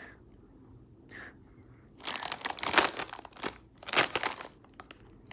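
Plastic potato-chip bag crinkling as it is handled, a faint rustle followed from about two seconds in by a run of sharper crackles.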